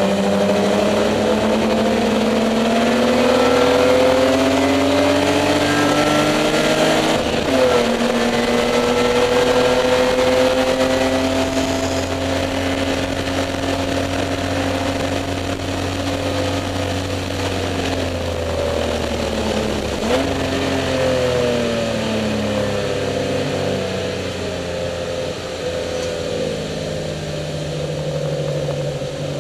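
Spec E30 BMW race car's straight-six engine heard from inside the stripped cabin, pulling hard with its pitch climbing, then dropping sharply at a gear change about seven seconds in. The pitch later sinks off throttle and jumps at another shift around twenty seconds in.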